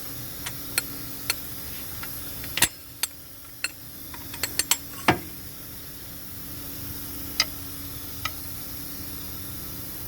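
Scattered sharp clicks and knocks of hand tools and engine parts being handled, at irregular intervals, with two louder knocks a few seconds apart, over a steady faint hum.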